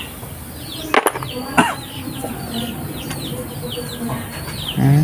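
A bird chirping over and over, about two high chirps a second, each sliding downward in pitch. Two sharp clicks come about a second in and again half a second later.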